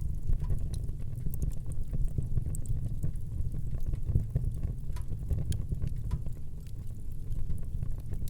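Fire burning in a fireplace: a steady low rumble of the flames with frequent small crackles and the odd pop.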